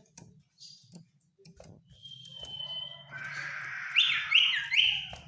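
Common iora calling: a long held whistle about two seconds in, then a harsh, grating call that ends in three loud sweeping notes near the end.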